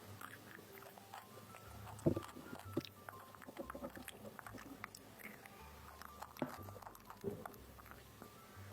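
A small child eating: chewing with scattered small clicks and taps of food and utensils, the loudest about two seconds in, over faint tinkly background music.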